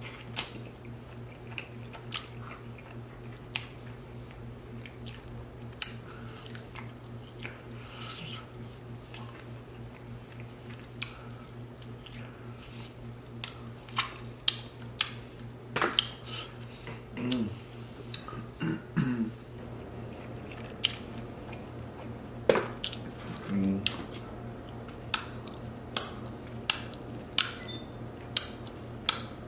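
Close-miked chewing and lip-smacking of chicken wings: wet mouth clicks scattered throughout, coming faster near the end, with a few brief hums from the eater's voice in the middle. A steady low hum sits underneath.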